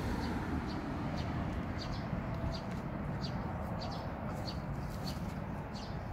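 Small birds chirping in many short, high calls, a few a second, over a steady low outdoor background rumble.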